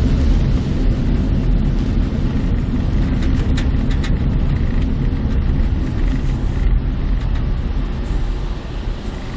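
Car road noise heard from inside the cabin while driving: a steady low rumble of engine and tyres on the road, growing quieter near the end.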